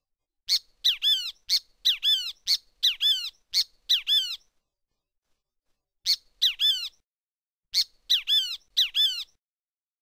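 Great kiskadee calling: a rapid series of short, sharp, shrill notes, in two bouts with a pause of about a second and a half between them.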